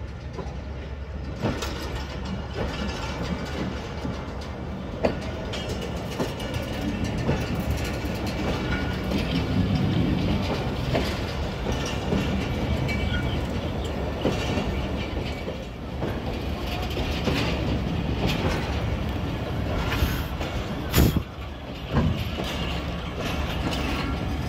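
Pakistan Railways passenger coaches rolling slowly alongside the platform as the rake is shunted into place: a steady rumble with scattered clicks and clanks of wheels over rail joints, and a few sharp knocks, the loudest near the end.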